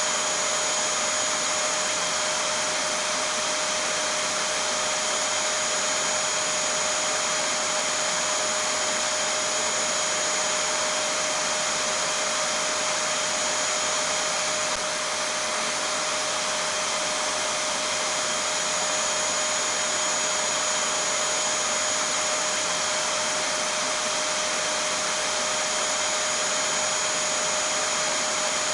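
Vacuum cleaner running steadily: a continuous rushing air noise with a constant whine over it.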